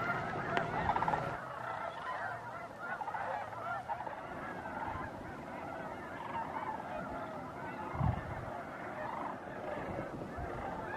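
A large flock of snow geese calling continuously, many honks overlapping. A brief low thump about eight seconds in.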